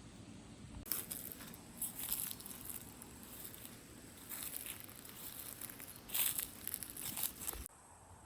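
Hedgehog rustling and crackling through dry leaves and grass in irregular bursts that stop abruptly near the end.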